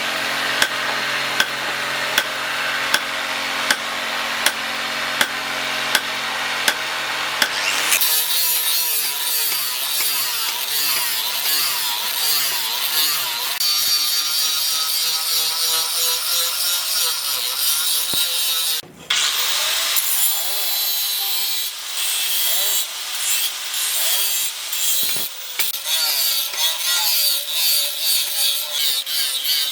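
Tool working wood: a steady machine hum with evenly spaced ticks for the first eight seconds, then uneven scraping strokes on wood.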